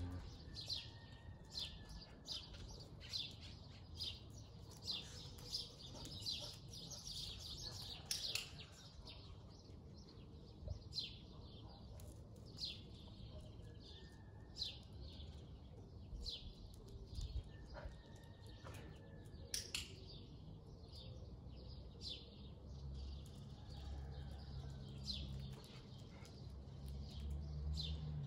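Small birds chirping, many short high chirps over a faint low background rumble, with two sharper clicks standing out.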